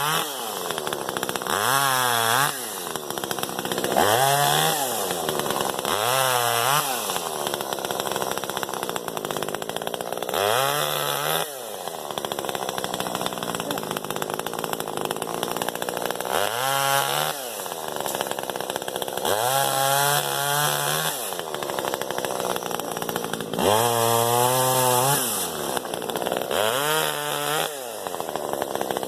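Hoteche chainsaw running and being revved again and again, its pitch rising and falling back about every two to three seconds, as it is worked on brush and trees.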